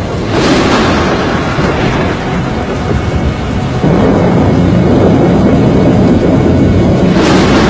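Film sound design of a tornado storm: a loud, deep rumble with rushing wind and rain. A rushing surge comes about half a second in and again near the end, and the noise steps up louder about four seconds in.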